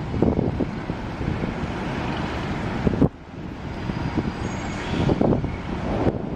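Low, rumbling outdoor background noise that swells unevenly; it breaks off sharply about three seconds in and then builds again.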